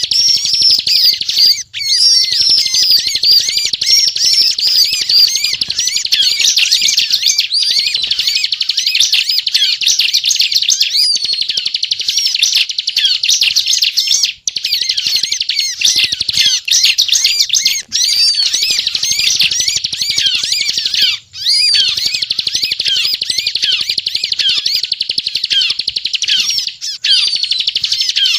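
Bar-winged prinia (ciblek) singing its fast, unbroken chattering song, the rapid drill-like 'ngebren' run of high chirps, broken by a few very short pauses.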